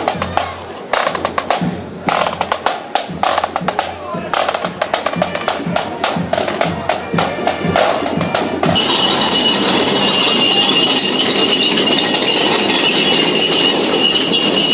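Drumming with many rapid sharp cracks and strikes. After about nine seconds this gives way abruptly to a steady high-pitched tone over continuous noise.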